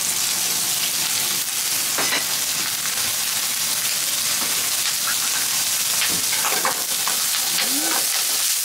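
Chopped wakame stems sizzling steadily in hot sesame oil in a frying pan. In the later seconds a wooden spatula stirs them, adding a few scrapes and taps.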